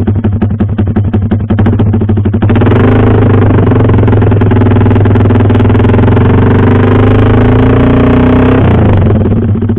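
Yamaha R15 V3's 155 cc single-cylinder engine through a WRX GP6 MP1 exhaust silencer with its baffle fitted: pulsing at idle, then about two and a half seconds in revved up and held at roughly half revs, the note creeping slightly higher, before dropping back to idle near the end.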